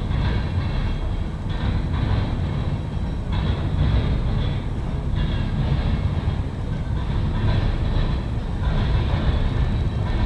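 Freight cars of a Norfolk Southern mixed freight train rolling past on the rails: a steady, heavy rumble, with higher rattling noise coming and going every second or two.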